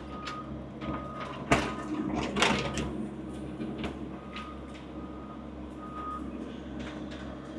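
Skid steer's diesel engine running steadily while its backup alarm beeps at a steady pace, the sign that the machine is reversing. A few sharp clunks from the machine working in the mud come through about a second and a half and two and a half seconds in.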